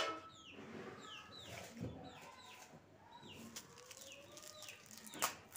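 Faint birds chirping in the background: short falling chirps repeated about twice a second, with a lower drawn-out call in the middle. A single sharp click cuts in about five seconds in.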